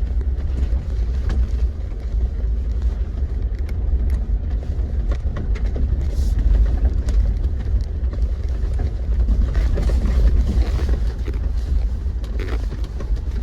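Off-road vehicle driving over a bumpy dirt trail: a steady low rumble with scattered rattles and knocks as it takes the bumps.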